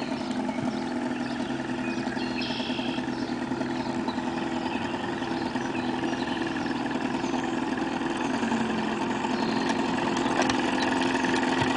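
Boat's outboard motor running steadily, growing gradually louder.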